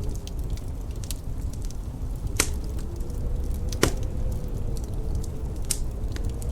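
Wood fire crackling in a fireplace, with frequent small ticks and three sharper pops about two and a half, four and six seconds in, over a steady low rumble.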